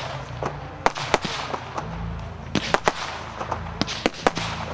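Aerial fireworks bursting: a run of sharp, irregular bangs over a continuous noisy haze, coming thicker in the second half.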